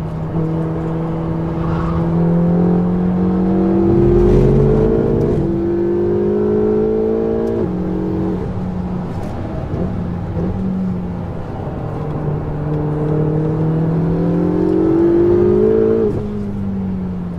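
Ferrari 488 GTB's twin-turbo V8 through a Capristo aftermarket exhaust, heard from inside the car as it pulls through the gears. The engine note climbs in pitch under acceleration and drops sharply at gear changes, about five seconds in, about eight seconds in and near the end.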